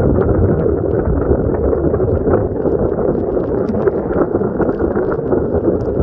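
Heavy rain pouring steadily onto flooded pavement and standing water, a dense hiss with wind buffeting the microphone.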